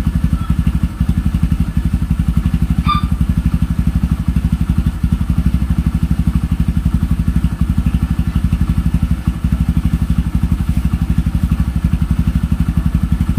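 Kawasaki Barako 175's air-cooled four-stroke single-cylinder engine idling steadily with a rapid, even low beat, running on without stalling: the owner judges its carburetor in good condition. A brief high chirp sounds about three seconds in.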